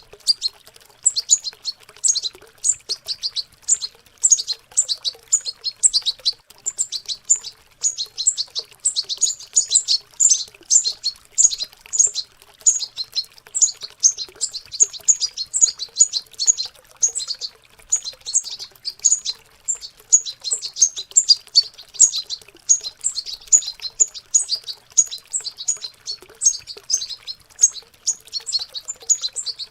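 Young European goldfinches twittering in subsong, the rambling practice song of juveniles learning to sing: a dense, unbroken run of quick high chirps, with a faint sound of running water underneath.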